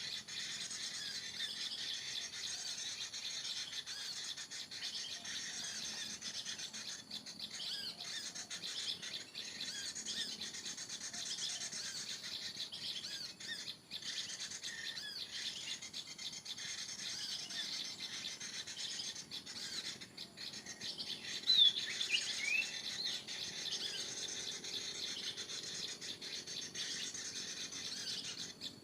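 Small birds chirping and twittering continuously over a steady insect hiss, with a few louder, clearer chirps a little over two-thirds of the way through.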